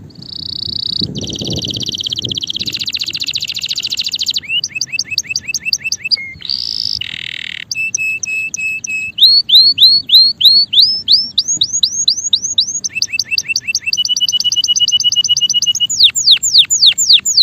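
Male canary singing a long, loud song of rapid repeated-note trills, switching to a new trill every second or two.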